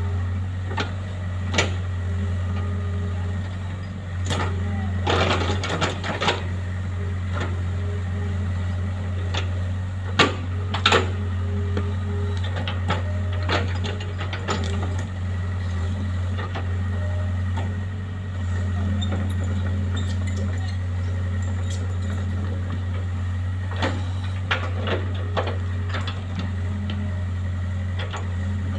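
Engine-driven machine running steadily with a constant low hum, with scattered sharp knocks and clattering, the loudest about five and ten seconds in.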